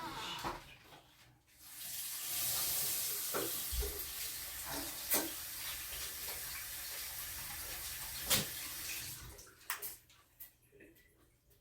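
Water running steadily from a tap for about eight seconds, with two sharp knocks partway through.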